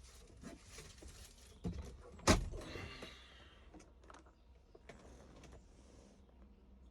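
Mostly quiet, with two sharp knocks a little over two seconds in, the second followed by a brief rustle, and a few faint ticks later.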